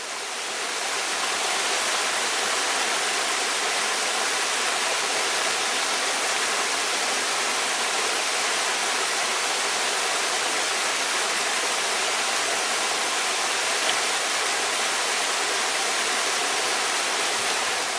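A steady, even rushing noise with no tones or rhythm in it, fading in over the first couple of seconds and holding level throughout.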